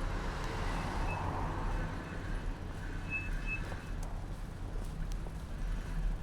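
Street traffic noise with a steady low hum and road rumble, heard from a bicycle's handlebar-mounted camera, with a few brief faint high-pitched chirps.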